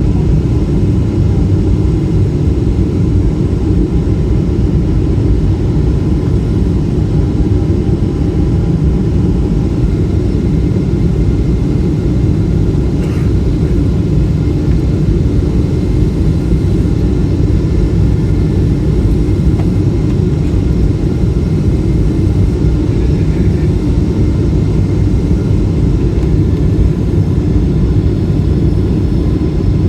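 Cabin noise inside a Boeing 777-300 with Rolls-Royce engines: a steady low rumble of the engines and the airliner rolling on the ground, with faint steady whining tones above it.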